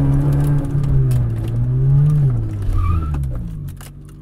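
Fiat Punto 1.2 8V four-cylinder engine running at steady, fairly high revs while the car drives, heard from inside the cabin. The revs rise slightly about two seconds in, then drop, and the engine gets quieter near the end as the driver eases off.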